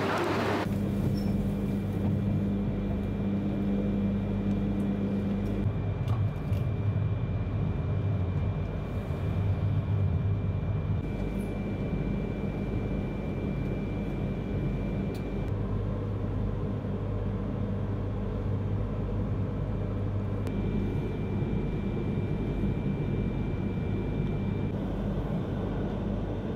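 Running noise heard inside a Yamagata Shinkansen Tsubasa train on the move: a steady low rumble and hum, with a thin high whine that holds for several seconds at a time, twice louder.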